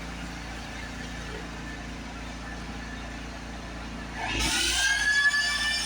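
Steady low background hum, then about four seconds in a motor starts up with a whine that rises in pitch and holds steady.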